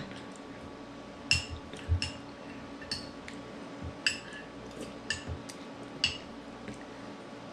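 A spoon clinking against a bowl, about eight light, irregularly spaced clinks.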